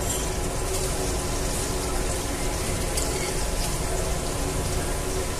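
Steady sizzle of garlic, onion and annatto oil frying in a pot as shrimp and calamari rings are spooned in, with a few faint clinks of the spoon.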